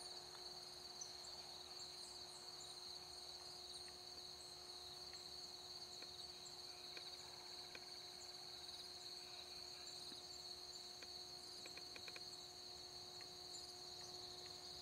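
Faint, steady high-pitched chorus of crickets trilling, with a faint steady low hum underneath.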